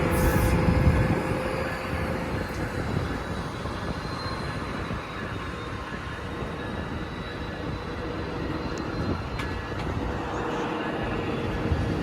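Amtrak Empire Builder passenger train moving slowly through the station, its locomotive and cars making a steady rumble with a faint high whine. It is loudest in the first second or so, then settles to a steadier level.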